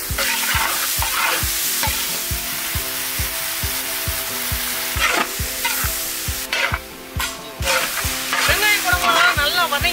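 Sliced onions, green chillies and capsicum sizzling in hot oil in a large metal kadai over a wood fire, stirred with a long steel ladle. Background music with a steady beat plays underneath, and a melody line comes in near the end.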